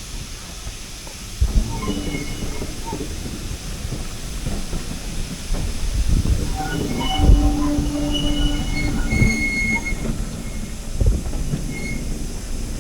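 Heritage railway train running along the track, rumbling, with heavy knocks at about a second and a half in, midway and near the end. Short high-pitched squeals come from the wheels in the middle.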